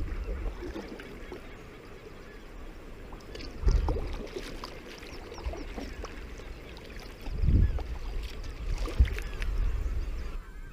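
Water splashing and slapping around a sea kayak, with three louder splashes and wind buffeting the microphone.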